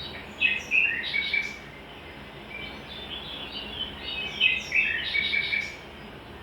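Small birds chirping in two spells of quick, rapid notes, the second longer than the first.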